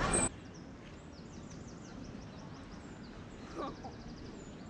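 Birds chirping: many short, high, falling notes and a quick trill, with one lower call about three and a half seconds in. A louder noise cuts off abruptly just after the start.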